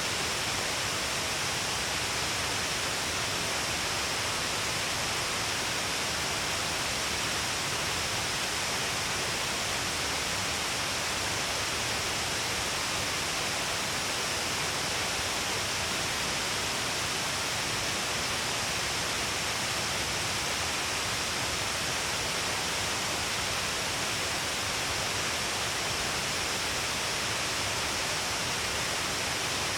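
Steady rush of Shiraito Falls, many streams of water pouring down a cliff face as a constant, even hiss of falling water and spray.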